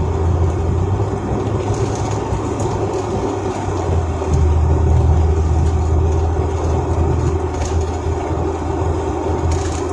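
Car engine hum and road noise heard from inside the cabin, dropping off briefly a few seconds in and then picking up again.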